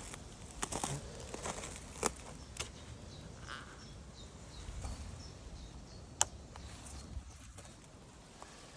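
Scattered faint clicks and knocks with a few faint, short bird chirps over a low outdoor rumble. The motorcycle engine is not running.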